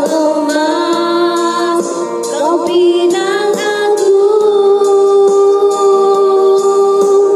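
Singing with music: a voice sliding between notes, then holding one long steady note from about halfway through.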